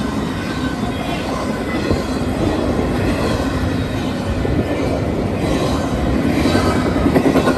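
A train rolling past on the rails: a steady rumble of wheels and cars, growing a little louder near the end.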